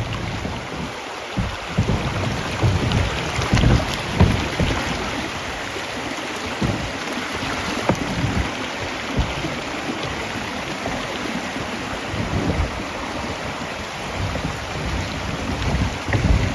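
Steady rushing of river water, with wind buffeting the microphone in irregular low gusts.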